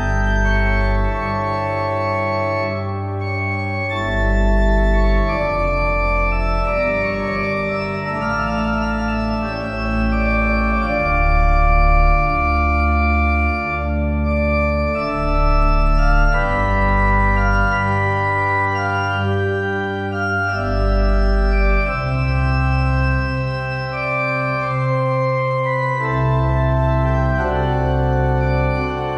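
Organ playing slow, sustained chords over a deep bass line that moves to a new note every second or two.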